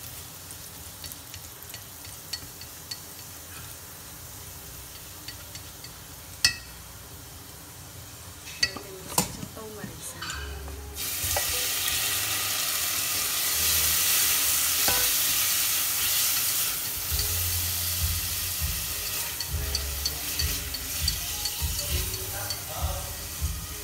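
Minced garlic frying gently in fat in a stainless steel pot, with a few clicks of wooden chopsticks against the pot. About halfway through, raw shrimp are tipped into the hot fat and the sizzle suddenly turns loud, with stirring taps over it.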